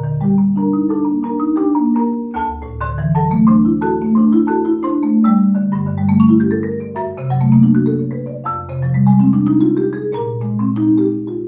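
Marimba playing flowing, repeated rising arpeggios: low bars ring on beneath quicker high notes, in waves that climb every two seconds or so.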